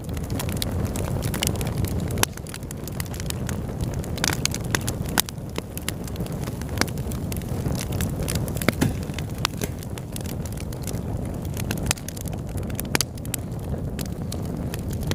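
Wood fire burning in a fireplace: a steady low rumble of the flames with frequent sharp crackles and pops, a few of them louder than the rest.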